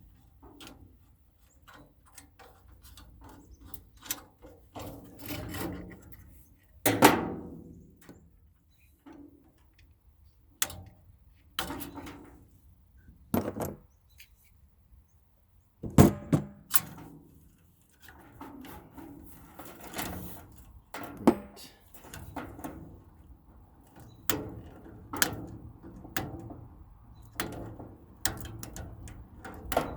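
Irregular knocks and clanks of a furnace's sheet-metal parts and hand tools being handled while it is dismantled for scrap, with two louder bangs, about seven and about sixteen seconds in.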